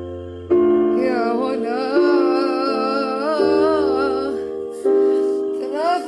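A woman singing a wavering, ornamented vocal line over sustained piano or keyboard chords that change about once a second; the voice drops out partway through and comes back briefly near the end.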